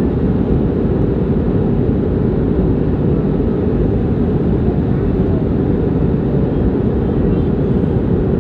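Steady, loud rumble of an airliner in flight, heard from inside the passenger cabin: engine and airflow noise.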